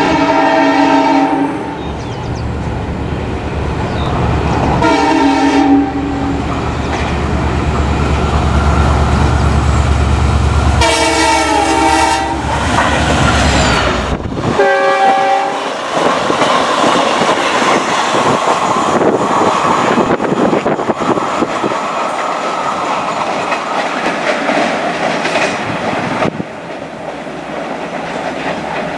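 Diesel locomotive hauling the Talgo trainset sounds its multi-tone horn four times over the low rumble of its engine: once at the start, again about five seconds in, a longer blast around eleven to thirteen seconds in, and a short one near fifteen seconds. The lightweight Talgo coaches then rush past with steady clickety-clack of the wheels on the rails.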